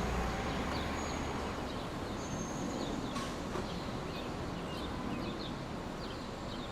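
Steady brown-noise hiss with small birds chirping over it in short, scattered high calls.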